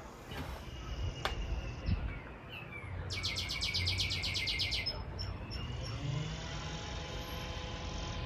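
Backyard birds chirping over steady outdoor background noise. About three seconds in, a rapid high trill of roughly nine pulses a second runs for about two seconds.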